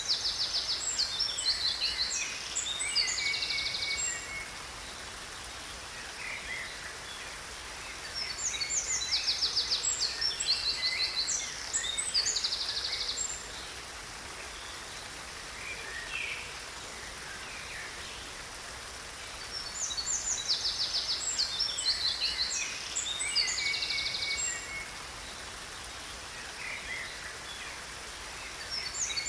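Songbirds singing in three bursts of rapid, high chirps and trills, each four to five seconds long and about ten seconds apart. Under them runs a steady hiss of cascading water.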